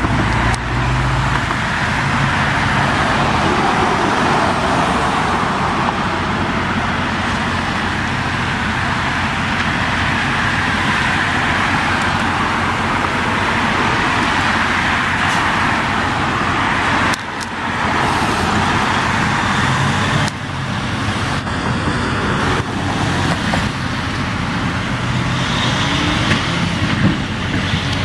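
Road traffic passing close by: a steady rush of tyres and engines, with a heavy truck's engine drone near the start. The sound breaks off sharply a few times in the second half.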